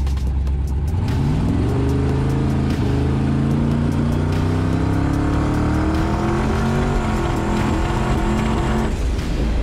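Twin-turbo Oldsmobile Cutlass engine under hard acceleration from a launch, pulling long in first gear, its pitch climbing steadily for about eight seconds before cutting off abruptly near the end.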